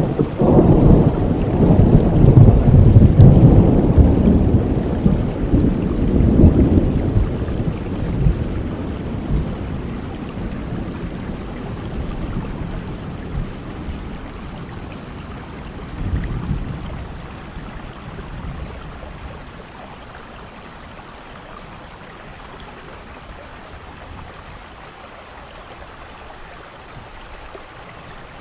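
Steady rain with a long roll of thunder that is loudest in the first few seconds and dies away over about twenty seconds, with a smaller rumble about halfway through.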